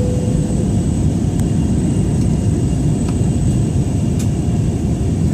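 Steady low rumble of jet engines and rushing air heard inside an airliner's passenger cabin, with a thin steady high whine over it. A brief soft tone sounds right at the start, and a few faint clicks come later.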